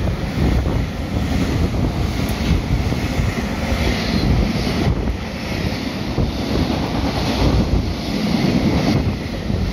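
Freight train of container flat wagons passing close at speed: a steady rumble of wheels on rail, with the rush of air buffeting the microphone.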